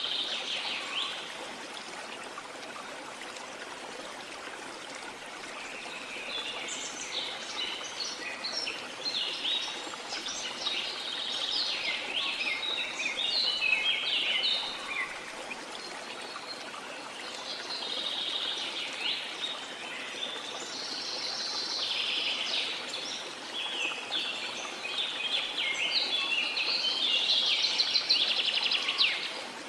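Birds singing in clusters of quick high chirps and trills over the steady rush of a waterfall. The birdsong thins out for a few seconds near the start and again around the middle, then builds to its loudest near the end.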